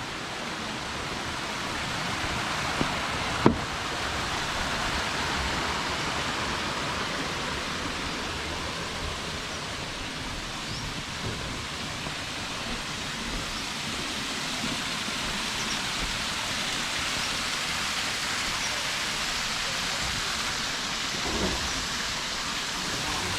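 Steady rushing of a waterfall's falling water, with a single sharp click about three and a half seconds in.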